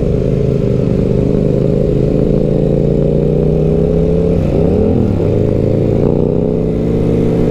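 Benelli BN 125's single-cylinder 125 cc engine running under way, its pitch creeping up steadily, then dipping and climbing back about four and a half seconds in.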